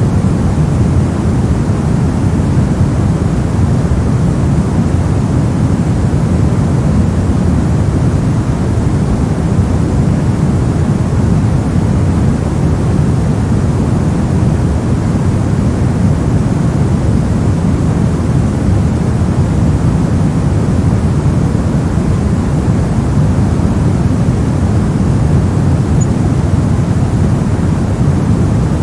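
Steady synthetic white noise track: an even, unbroken hiss weighted toward the low end, deep and rushing rather than bright, with no change at all.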